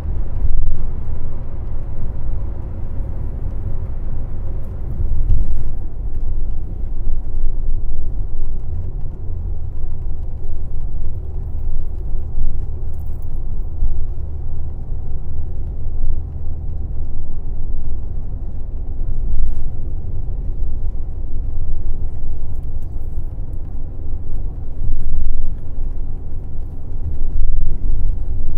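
Airport limousine coach under way: a steady, low engine and road rumble heard from inside the bus.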